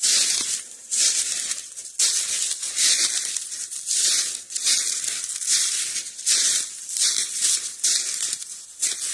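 Footsteps crunching through dry leaf litter and brush, about one step every second, walking up a steep hill.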